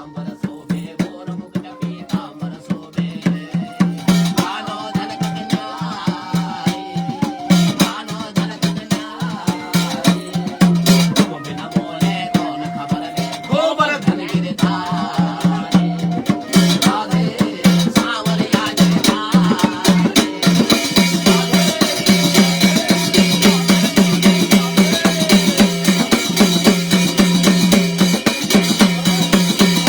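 Garhwali jagar folk music: drums beating a fast, even rhythm under steady held tones, with a wavering melody line in the first half.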